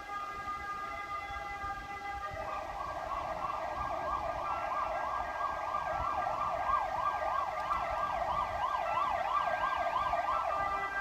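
Emergency vehicle siren in a fast rising-and-falling yelp, starting about two seconds in and stopping just before the end.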